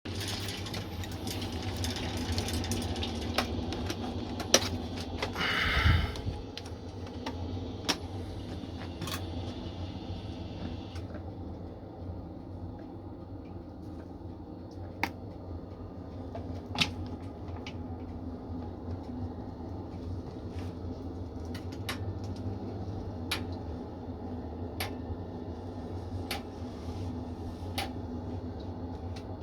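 2000 W industrial ash vacuum cleaner running with a steady motor hum and airflow hiss. Scattered sharp clicks run through it, with a louder burst about six seconds in. The hiss thins out after about eleven seconds.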